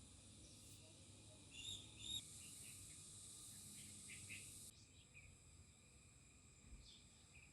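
Faint outdoor ambience: a high insect trill that cuts off suddenly about five seconds in, with a few short bird chirps scattered through.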